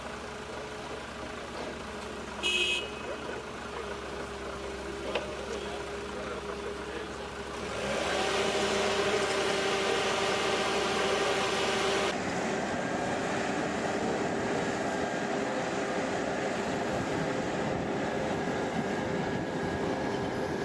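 Heavy machinery or vehicle engines running steadily, with a brief high-pitched sound about two and a half seconds in. The sound changes abruptly twice, growing louder and noisier at about eight seconds, then steadier after about twelve.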